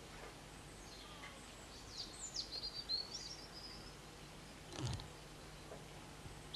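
A small bird sings a quick run of high chirps and trills for about two seconds, over a steady low hum and hiss. A single short thump comes about five seconds in.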